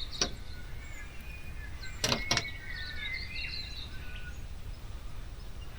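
Wild birds calling in the background: a scatter of short high chirps and thin whistled notes that slide in pitch. Two sharp clicks come close together about two seconds in.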